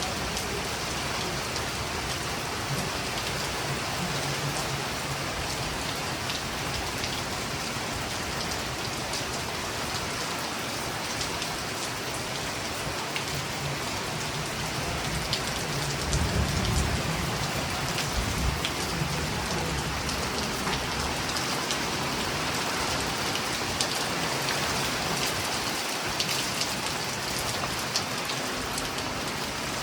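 Steady rain falling and pattering on surfaces, with a low rumble of distant thunder about halfway through.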